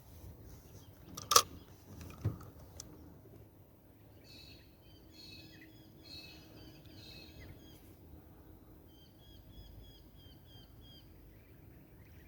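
Birds calling in quick series of short, repeated chirps, over a quiet river background. A sharp knock sounds about a second in, with a smaller one shortly after.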